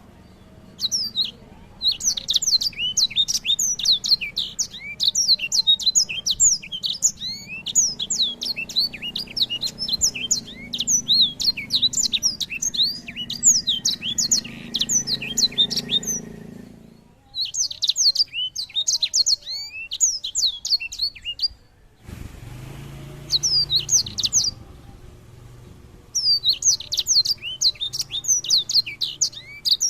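Songbird singing a fast, twittering song of quick, sliding high notes in long runs, broken by brief pauses about halfway through and again about two-thirds through, over a faint low hum.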